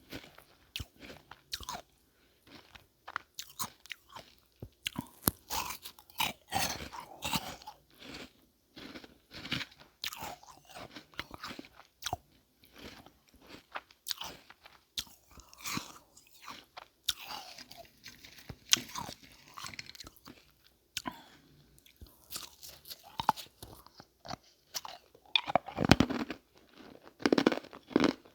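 Close-up biting and chewing of ice marbles: irregular sharp crunches with short gaps, the loudest bites coming near the end.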